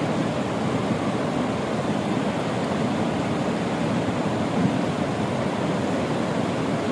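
Fast mountain river water rushing steadily, a constant deep roar with no breaks.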